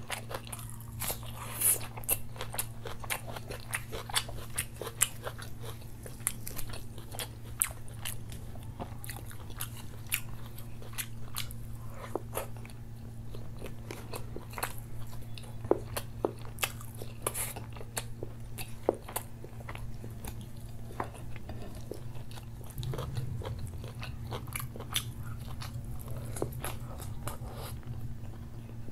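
Close-miked eating with the hands: wet chewing and lip smacks of saucy rice in butter chicken gravy, with many irregular sharp clicks. A steady low hum runs underneath.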